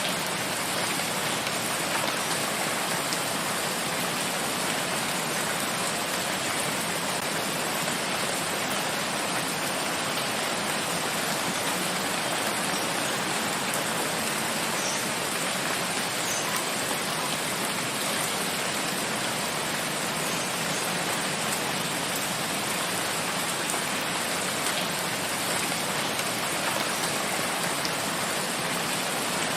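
Steady rain falling in a forest, an even hiss of drops with no let-up.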